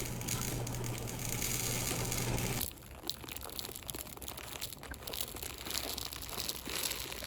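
Plastic bead packaging crinkling and rustling as it is handled, with small clicks from the beads. About two and a half seconds in the sound changes abruptly to lighter, scattered crinkles and taps.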